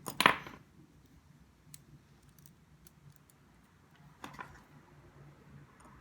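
Small parts of a model locomotive being handled on a workbench: a sharp clatter right at the start, a second, smaller one about four seconds in, and light clicks between.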